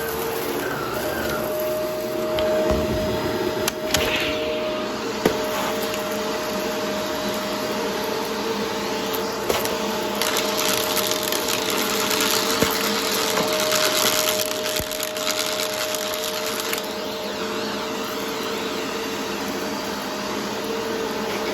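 Vacuum cleaner running with a steady motor whine while it sucks up a crunchy dry mess, the debris crackling and snapping through the brush roll and nozzle, with a few sharper cracks now and then.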